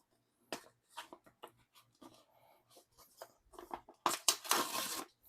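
Photo cards and their plastic packaging being handled: short taps and rustles, then a louder crinkle of plastic for about a second near the end.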